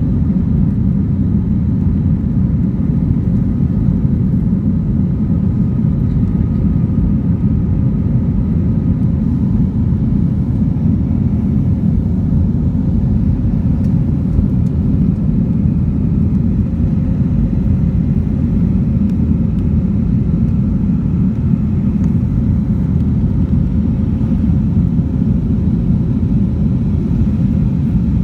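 Airbus A321 airliner in flight during its take-off and climb, a steady low rumble of engines and airflow with a faint steady hum above it.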